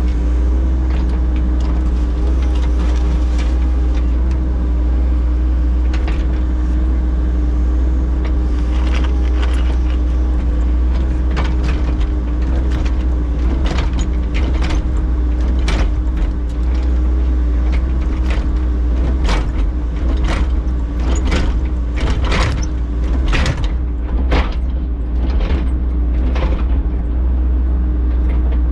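Heavy diesel construction equipment running steadily with a deep engine drone, with repeated sharp clanks and knocks that come thicker in the second half.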